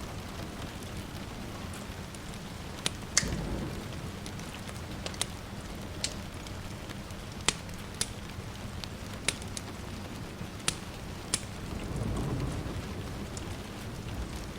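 Steady rain with a wood fire crackling, sharp pops every second or so. A short low rumble of distant thunder comes about three seconds in, and a longer one about twelve seconds in.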